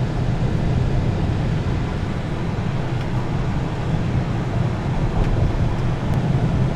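Steady low rumble of a vehicle in motion: engine and road noise without change.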